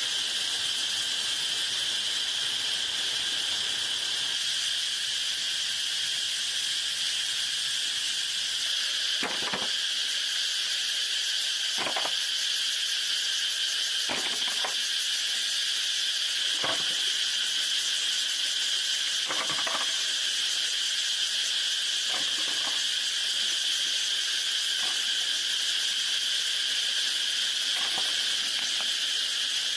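Steady high chorus of insects, with about eight short knocks spaced two to three seconds apart starting about a third of the way in.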